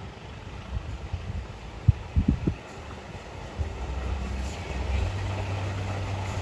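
Faint rumble of an eight-car KRDE diesel multiple unit running away down the track. There are a few low thumps about two seconds in, and a steadier low hum builds in the second half.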